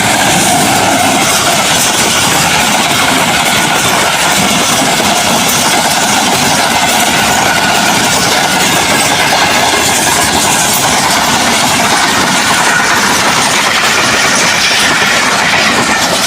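Passenger train running on the rails, with a loud, steady noise from the wheels and tracks.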